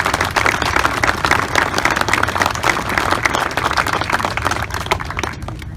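Crowd applauding: many hands clapping in a dense patter over a low steady rumble, thinning out near the end.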